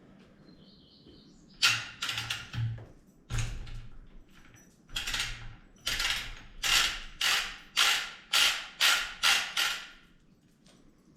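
Front wheel of a Honda Transalp XL600V turned by hand to drive the repaired speedometer. It gives a series of rasping, creaking mechanical strokes, a few at first, then about two a second in the second half, stopping shortly before the end.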